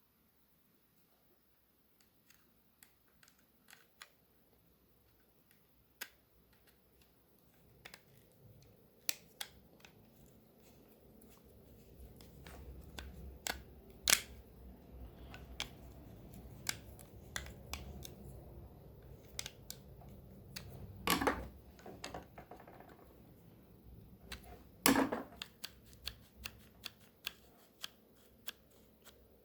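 Irregular small clicks and taps of hard plastic parts being handled and fitted, with a few louder snaps.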